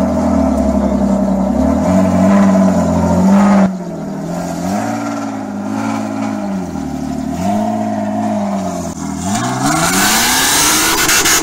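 BMW E36 Compact's M50 straight-six engine running, blipped up and down twice, then revved up hard about nine seconds in and held high as the rear tyres spin and screech.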